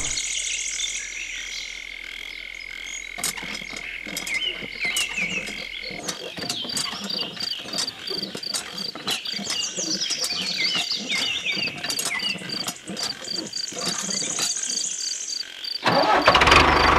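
Frogs croaking and insects chirping in a continuous chorus, with a high pulsing trill through the middle and scattered small clicks. About a second before the end the miniature tractor's engine starts and runs with a low, steady hum.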